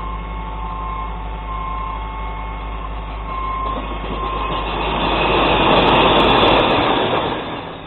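Glass recycling truck running with a steady whine, then a loud rush and crash of glass bottles and jars tipping into its body, building for about three seconds and dying away near the end.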